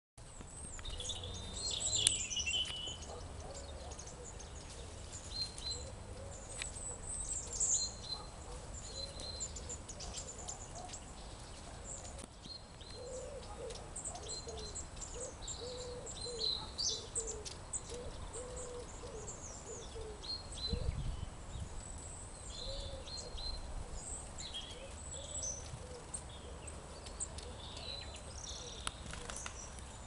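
Several small woodland birds chirping and calling at a feeding table, short high calls coming thick and fast over a steady low background rumble.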